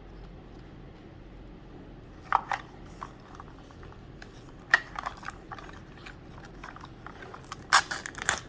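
Small plastic packaging and miniature toys being handled and opened: scattered crinkles and clicks, with the loudest cluster near the end.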